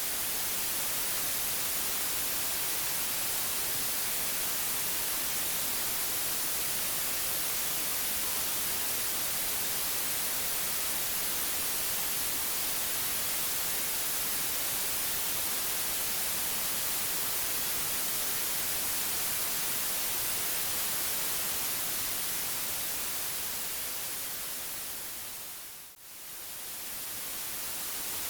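Steady white noise hiss, brightest in the high end, which fades down almost to nothing about 26 seconds in and swells straight back up.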